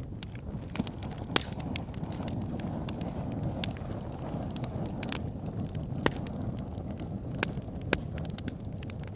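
Wood fire burning in a fireplace: a steady low rumble of flames with constant crackling and several sharper pops of burning logs.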